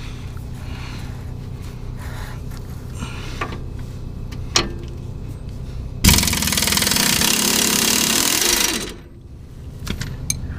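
Impact wrench hammering for close to three seconds, starting about six seconds in and cutting off sharply, as it loosens a Jeep's rear lower control arm bolt. A few light tool clicks come before it, over a steady low hum.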